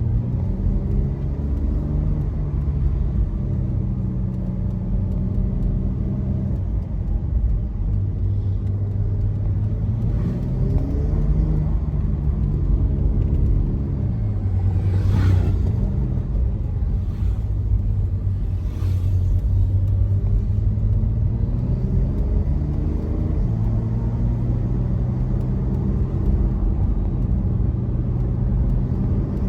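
Turbocharged flat-six of a Porsche 911 Carrera Cabriolet (992.2) under way on a winding road, its note climbing under acceleration and dropping off again several times as the car works through the bends.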